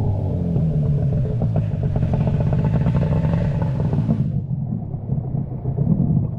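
A motor vehicle's engine running steadily as it drives, with a rattling clatter for a couple of seconds in the middle.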